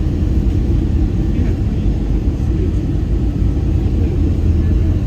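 Steady low rumble inside an Airbus A320-200's passenger cabin in flight: engine and airflow noise.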